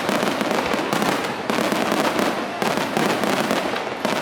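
Fireworks going off in a rapid barrage: dense, continuous crackling, with a fresh volley setting in about once a second.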